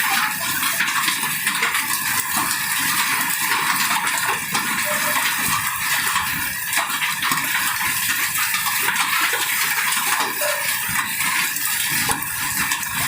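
Hailstones and heavy rain pelting hard surfaces: a dense, steady clatter of countless small, sharp impacts with no let-up.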